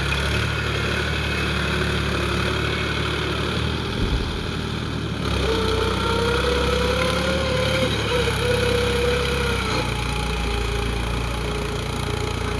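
Mini tractor's small motor running steadily, with a wavering whine that joins about five seconds in and drops away near ten seconds.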